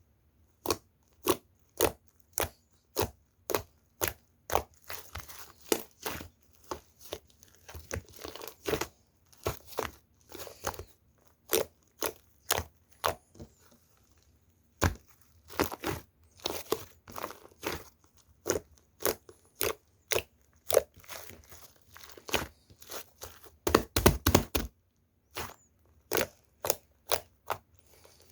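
Foam ball slime being squeezed and pressed by hand, giving a string of sharp crackling pops and crunches from the beads and trapped air bubbles, about one or two a second, with a dense burst of pops about 24 seconds in.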